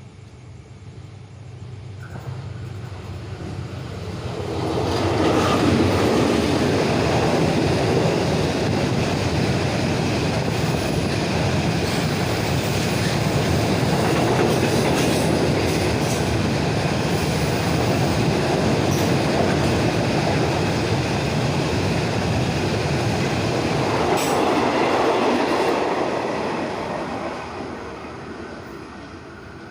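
A Thai train passing close by: its rumble and wheel noise swell over the first few seconds, hold steady for about twenty seconds, then fade away near the end.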